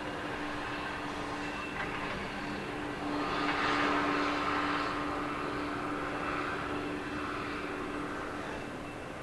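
International dual-axle dump truck plowing snow: a steady engine hum under a wash of plow noise, which swells about three seconds in and then eases off.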